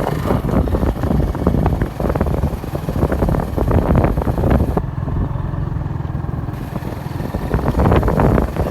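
Motorcycle running on the move, a steady low engine and road rumble with irregular buffeting; the higher hiss drops away for a couple of seconds midway.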